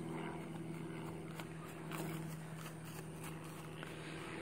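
Steady low hum of a motor running, with a few faint clicks.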